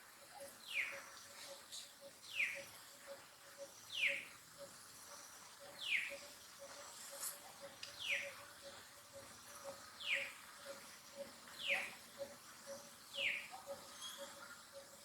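Animal calls: a short high note that falls in pitch, repeated nine times at an even pace of about one every one and a half to two seconds.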